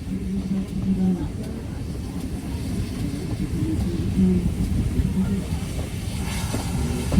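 A heritage railway train running with a steady low rumble, voices over it, and a short hiss about six seconds in.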